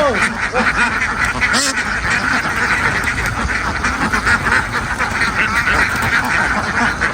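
A large flock of domestic ducks quacking all together in a dense, unbroken chorus.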